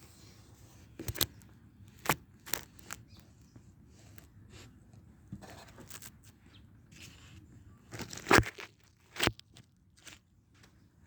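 A series of sharp, irregular crunches and clicks, about seven in all, with the loudest one past the middle, over a faint background.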